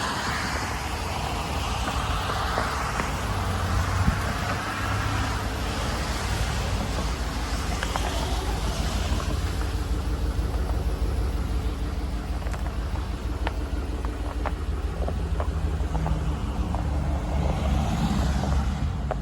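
Road traffic passing over a steady low rumble. Vehicle noise swells at the start and again near the end.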